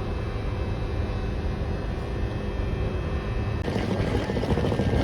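Afrosiyob high-speed train running, a steady low rumble with faint steady tones; about three and a half seconds in the noise turns louder and hissier.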